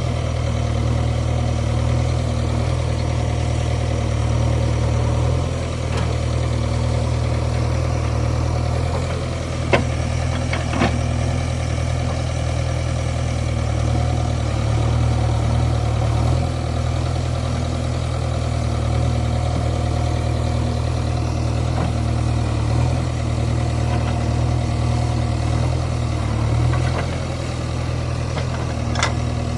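Heavy vehicle engine running steadily at idle, with two short sharp knocks about ten seconds in.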